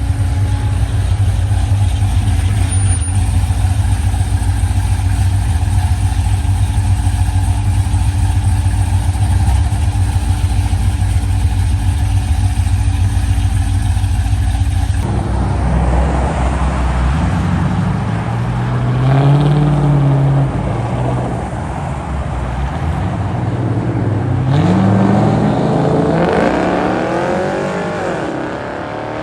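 A car engine idles with a deep, steady rumble for about fifteen seconds. After an abrupt change, car engines rev, their pitch rising and falling twice.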